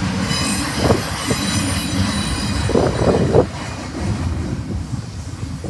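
Double-stack container train's cars rolling past: a steady low rumble of steel wheels on rail, with a thin high wheel squeal over the first couple of seconds. Loud knocks come about a second in and again in a cluster around three seconds.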